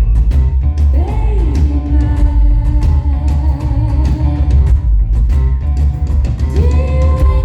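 Live rock band playing loudly: heavy bass and drum kit with electric guitar, a woman singing a held melody that slides up into its notes about a second in and again near the end, recorded from the crowd.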